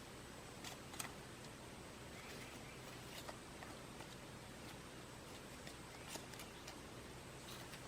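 Faint, scattered light clicks and taps, about eight to ten at uneven intervals with the sharpest about a second in, over a low steady hum.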